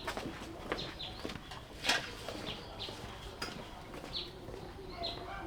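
A bird chirping in short, falling notes, repeated about every half second, with scattered clicks and rustles from handling plants close by.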